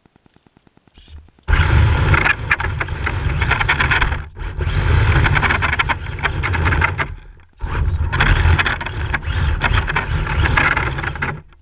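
Radio-controlled drift car driving and sliding on a hard surface close by: loud scraping tyre and motor noise that comes in three runs, with brief breaks about a third and two-thirds of the way through.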